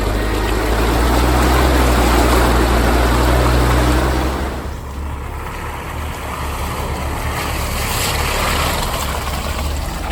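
Off-road 4x4's engine running hard under load with a dense rushing, splashing noise over it, typical of driving through mud or water; the load eases about four and a half seconds in and the engine runs on more quietly.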